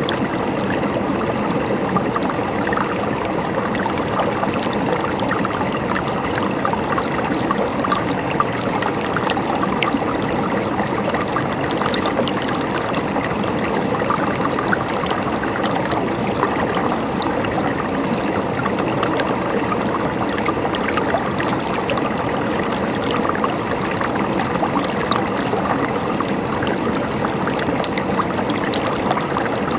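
Running water, like a small stream, flowing steadily with many tiny splashes.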